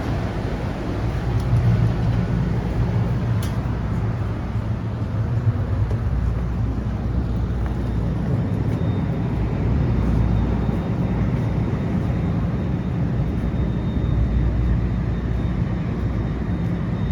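Steady low rumble of an Exo commuter train standing at the platform with its engine running.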